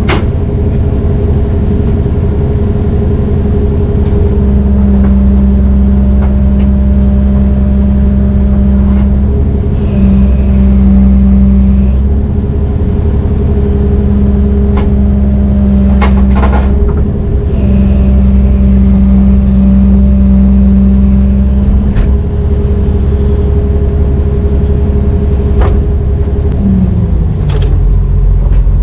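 Heavy diesel engine of a Brøyt X21 excavator working hard, its speed dropping and picking up again in stretches of a few seconds, with a few sharp metallic clanks about halfway through. Near the end the engine slows to a lower pitch.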